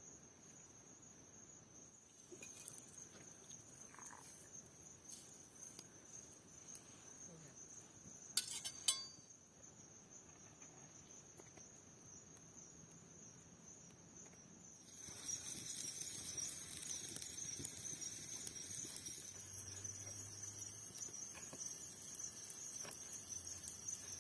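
Crickets chirping in a steady high drone, louder and fuller from about halfway through. A brief clatter of small clinks comes about a third of the way in.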